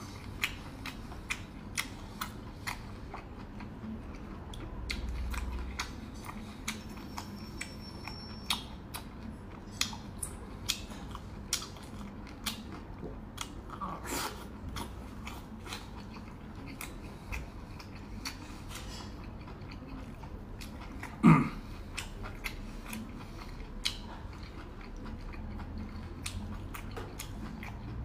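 Close-up chewing and wet mouth sounds of someone eating spicy maocai with beef tripe and pork intestines, with frequent small sharp clicks. One louder, brief mouth noise about two-thirds of the way through.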